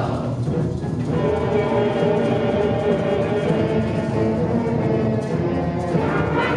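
School concert band of winds, brass and percussion playing, with held chords; a new chord comes in about a second in.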